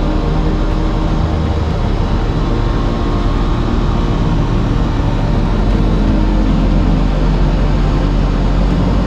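Aprilia RS 660's parallel-twin engine running steadily under way, with a fairly even engine note and a constant rush of noise.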